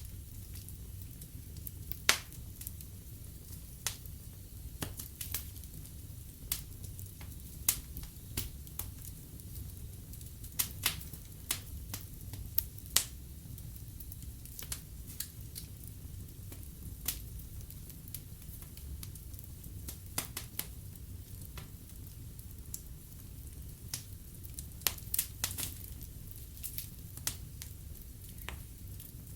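Logs burning in a fireplace, crackling with irregular sharp pops over a steady low rumble of the flames. The loudest pops come about two seconds in and again near the middle.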